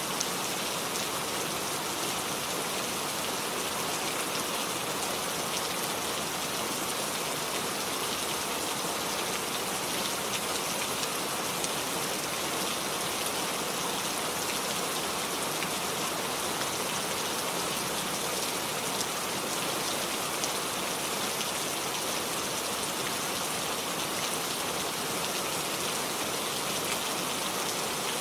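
Steady rain falling, an even hiss of many drops with the odd louder drop standing out.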